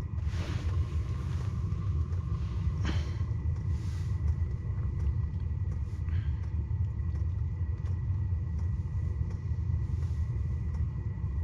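Motor vehicle driving: a steady low rumble of engine and road noise, with a few faint ticks.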